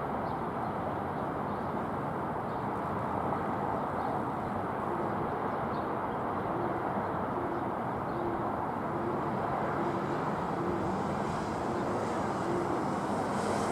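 Steady jet engine rumble of a Boeing 777 at takeoff power, growing slightly louder toward the end.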